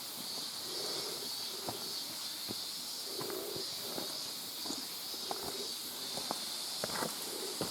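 A hiker's footsteps going down a wet, rocky trail, with irregular clicks throughout from the old video camera's loose monitor rattling. A steady high-pitched hiss runs behind them.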